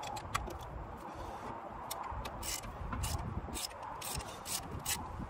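Irregular sharp metallic clicks and clinks of hand tools working on the engine, over a low rumble.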